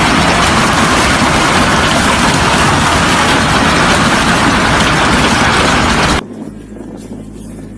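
Heavy hail of large stones pounding down: a loud, dense clatter of countless impacts. It cuts off abruptly about six seconds in, leaving a much quieter low hum.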